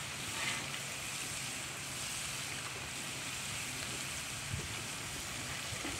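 Burgers, hot dogs and bacon sizzling steadily on a Blackstone flat-top griddle.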